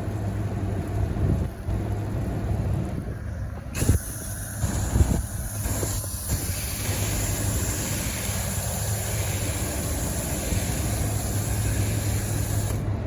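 Hose-end foaming sprayer spraying coil cleaner onto an air-conditioner condenser coil: a steady hiss of spray starts about four seconds in and cuts off just before the end, over a steady low hum.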